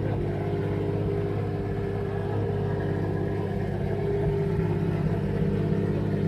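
Porsche 911 GT3's naturally aspirated flat-six running through its Lechner Racing exhaust, holding a steady engine speed without revving.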